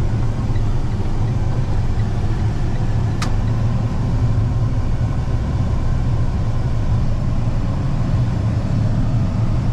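Steady low road and engine drone inside the cab of a Ford F-150 pickup while driving, with one short click about three seconds in.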